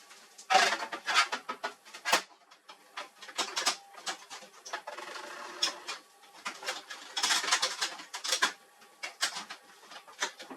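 Irregular clicks, scrapes and rattles of plastic and metal laser-printer parts being handled and worked on, in clusters of a second or so.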